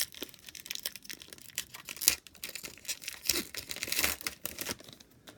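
A 2019 Donruss trading-card pack wrapper being torn open and crinkled: a dense run of crackles, heaviest about four seconds in.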